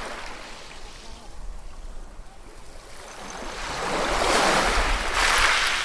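Ocean waves breaking, with a rushing hiss. One wave builds from about three seconds in to its loudest over the next two seconds, then eases off near the end.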